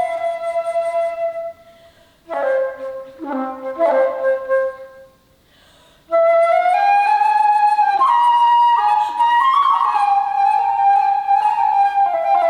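Solo alto flute: a held note that ends about a second and a half in, a short passage of notes after a brief pause, then after a second pause a long phrase of sustained notes that climbs and falls.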